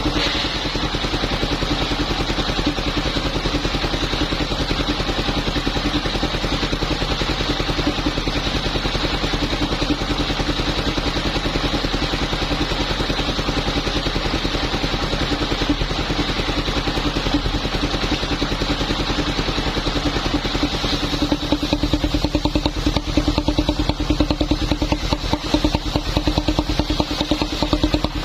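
Engine of a motorised wood saw running steadily at an even speed.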